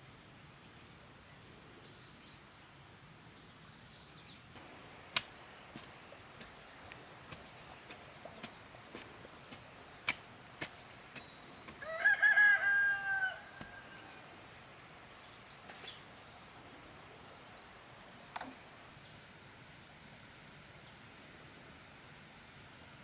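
A rooster crows once, about twelve seconds in, over a steady high-pitched chorus of crickets or other insects. A run of sharp clicks or taps, at about one or two a second, comes before and during the crow.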